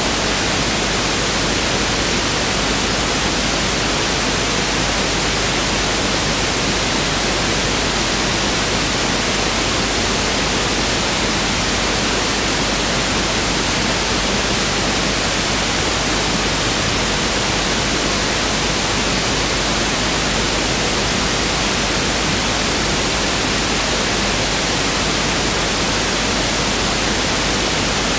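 Pink noise test signal: a steady, unchanging hiss spread evenly across the whole range from deep to high.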